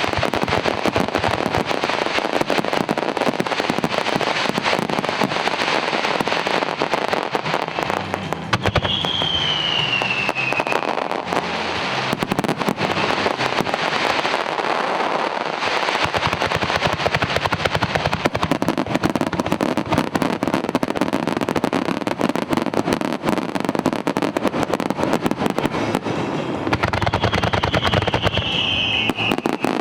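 Fireworks display with a dense, unbroken run of bangs and crackling. A short falling whistle sounds twice, about nine seconds in and again near the end.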